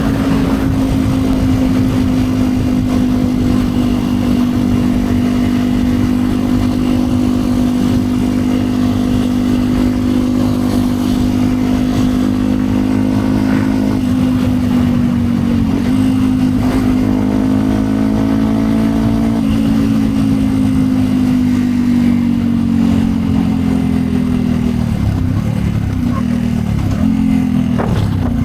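2010 Yamaha WR 125 X's single-cylinder four-stroke engine through a Yoshimura exhaust, held at steady high revs while riding, with a brief dip about halfway. Near the end the revs fall and drop off briefly several times in quick succession.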